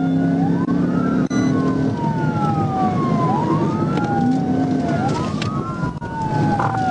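Police car siren on wail, its pitch climbing quickly and then sliding slowly down, over and over, over the running noise of the pursuing patrol car.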